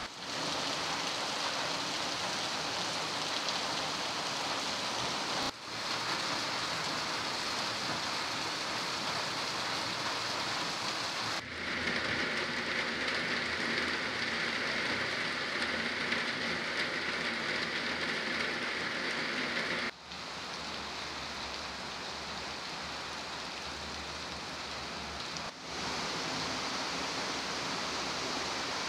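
Heavy rain pouring down in a steady hiss. The level jumps abruptly four times where takes are cut together, and it is loudest and brightest in the middle section.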